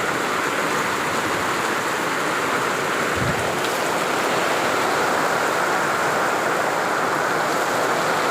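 Steady rain falling, a dense even hiss, with a brief low thump about three seconds in.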